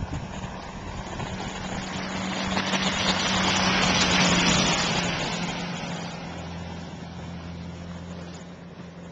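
A motor vehicle drives past on a snow-covered road. Its tyre and engine noise swells to a peak about four seconds in, then fades away, over a steady low engine hum.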